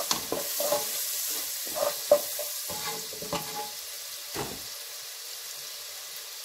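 Chopped onions, curry leaves and turmeric sizzling in hot oil in a pan while a wooden spatula stirs and scrapes through them, with one sharp knock of the spatula on the pan about two seconds in. The stirring stops after about four and a half seconds, leaving a steady sizzle.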